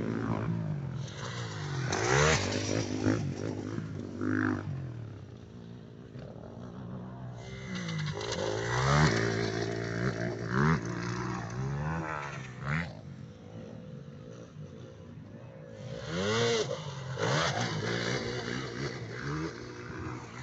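Motocross bikes revving as they ride the track, their engine pitch climbing and dropping again and again. The sound swells loudest as bikes pass about two, nine and sixteen seconds in.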